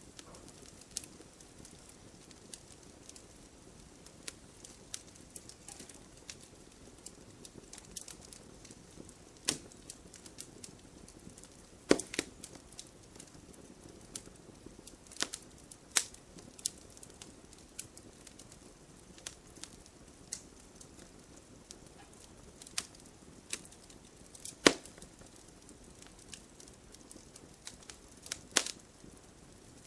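Wood fire burning, crackling and popping irregularly over a low hiss, with a few sharp louder pops.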